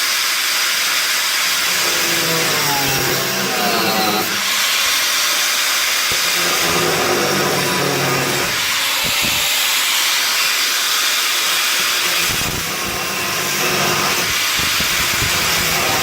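Angle grinder grinding off excess steel from a car body, a loud continuous hiss that eases briefly about four seconds in and again around thirteen seconds.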